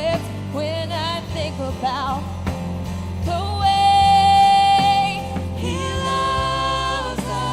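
Live worship music: a singer's voice wavering through short phrases, then holding two long notes over steady instrumental accompaniment.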